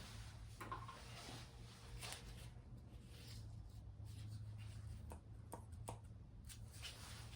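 Faint, scattered clicks and scrapes of hands and tools working on a diesel engine's cylinder head, over a low steady hum.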